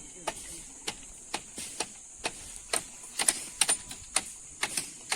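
Irregular sharp knocks and scrapes, two or three a second, of hand tools striking gravel and earth during road repair work, over a steady high hiss.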